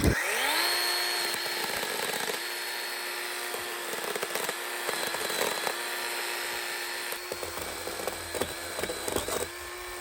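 Chainsaw revving up quickly, then running at high speed, its pitch dipping briefly several times as it bites into the limbs of a fallen tree. A few sharp cracks near the end.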